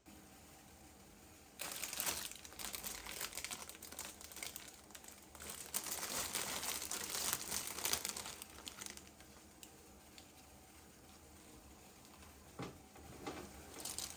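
Packaging crinkling and rustling as it is handled, starting about one and a half seconds in and dying down after about nine seconds, followed by a couple of light knocks near the end.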